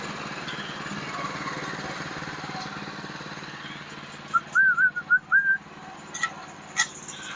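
Engine running steadily in the background. About four and a half seconds in, a loud run of five or six short wavering whistled notes lasting about a second, then two sharp knocks.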